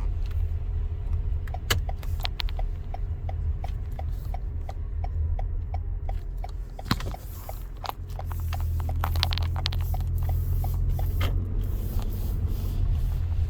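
Low steady rumble of a car running, heard from inside the cabin, with a regular ticking for several seconds and a few sharp clicks.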